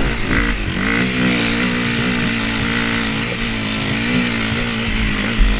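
KTM 525 EXC single-cylinder four-stroke enduro engine pulling under load on a climb, its revs held fairly steady with small rises and dips.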